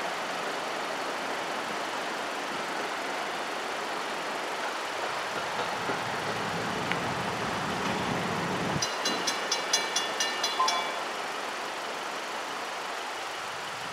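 NJ Transit commuter train rolling past and away from the grade crossing as a steady rumble. About nine seconds in, the crossing's mechanical bell rings briefly, roughly ten quick strokes over two seconds.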